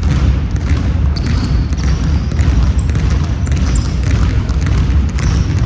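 A ball game on an indoor court: a ball bouncing on the floor repeatedly, with a few brief high squeaks, over a heavy low rumble.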